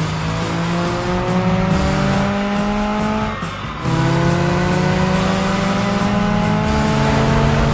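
Cartoon race-car engine sound effect accelerating in two long rising revs, the first breaking off about three seconds in and the second starting again just under a second later, over background music.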